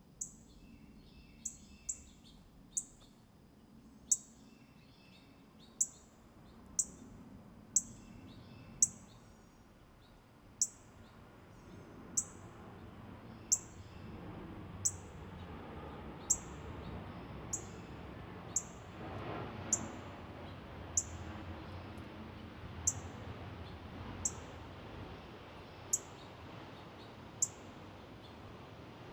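A bird giving short, very high chip calls over and over, roughly one every second, with a few softer, lower chirps mixed in during the first several seconds. Under them is a low background rumble that swells toward the middle.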